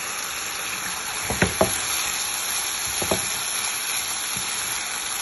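Boneless chicken feet sizzling steadily as they fry in a pan in a little oil and their own rendered fat. Three sharp clicks cut through: two about a second and a half in and one near three seconds.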